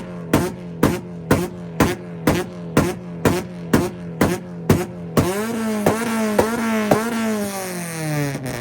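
Honda Accord engine held on a two-step launch limiter, its exhaust popping and banging about twice a second. A little past halfway the pops give way to a higher rev that holds briefly and then falls slowly, with a few last pops at the end.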